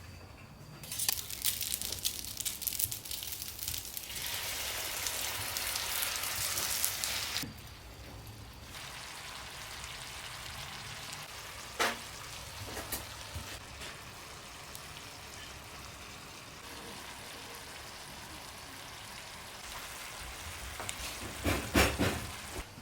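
Food sizzling in hot oil in a pan: a loud sizzle for the first several seconds that drops to a quieter, steady sizzle. Occasional clicks, then a few louder clatters near the end.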